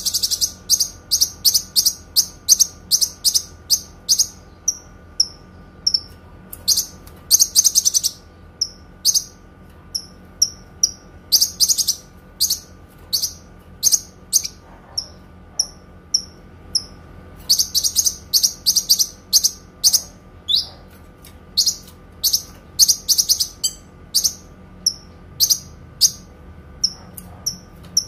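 A kinoi songbird singing: short, high, clear chirps repeated steadily, broken several times by long rapid trilled runs of notes.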